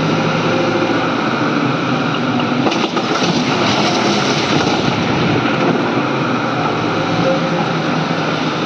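Excavator's heavy diesel engine running steadily under load while it works loading a truck, with a brief change in the sound about three seconds in.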